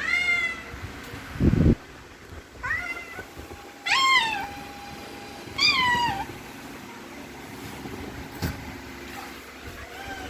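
A domestic cat meowing four times, each call rising and then falling in pitch, with a dull thump about a second and a half in.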